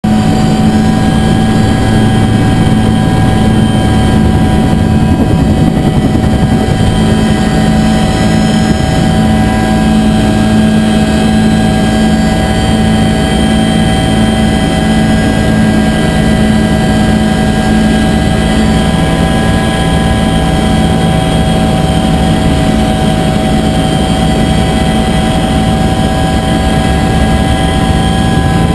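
Bell UH-1 Huey helicopter running in flight: a loud, steady drone of turbine and rotor with several constant high tones over a low rumble.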